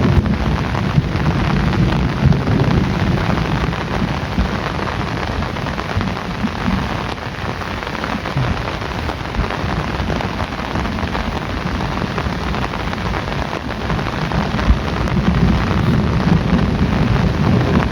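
Heavy rain falling steadily in a dense hiss, with low thunder rumbling in the first few seconds and again near the end.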